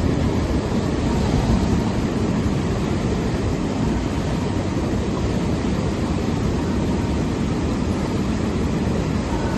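Steady rushing noise with a low rumble, typical of a boat running under a Minn Kota Quest brushless trolling motor, with water wash and wind. No distinct motor whine stands out.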